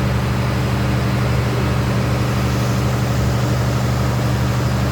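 A machine running steadily in the workshop, giving a loud, even, low hum that does not change.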